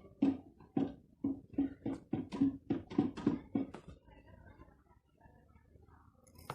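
A quick run of about a dozen hollow knocks, roughly three a second, stopping about four seconds in.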